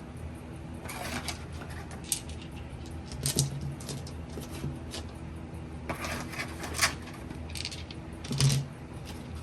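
Scattered light clicks and small knocks of objects being handled, irregular and a few per second at times, over a steady low hum; the two strongest knocks come about three and eight seconds in.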